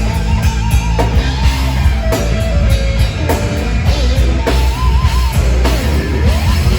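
Heavy metal band playing live: distorted guitars and a drum kit, with a lead line bending and swooping in pitch over the top.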